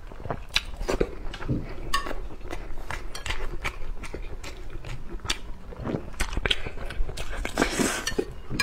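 Close-miked eating of a boiled egg: chewing with many wet mouth clicks and smacks. Near the end comes a short noisier stretch as the chopsticks scrape across the plate.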